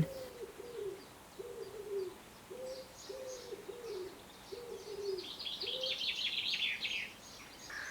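A pigeon cooing, a repeated phrase of low, soft notes, with a small songbird twittering high and quick from about five seconds in.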